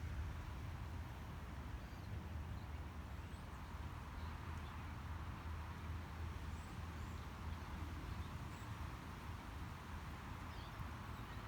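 Outdoor ambience: a steady low rumble with faint, brief bird chirps scattered through it.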